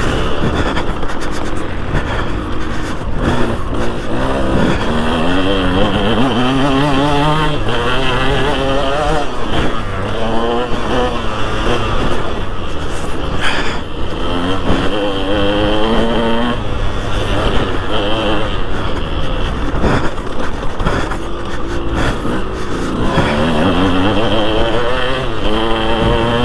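A 2003 KTM 200 SX single-cylinder two-stroke motocross bike being ridden hard. The engine revs climb and fall again and again as it accelerates, shifts and backs off, over steady wind and track noise.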